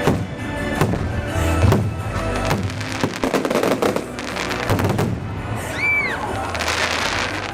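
Fireworks display: aerial shells bursting in rapid succession. About six seconds in comes a short whistle that rises and then falls, followed by a dense crackling near the end.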